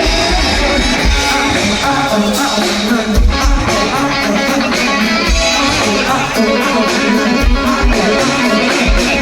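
Live rock band playing loudly, electric guitar to the fore over bass and kick drum.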